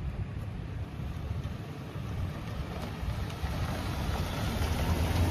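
Pickup truck's 3.6-litre gasoline V6 running at idle as a steady low rumble, growing slightly louder toward the end.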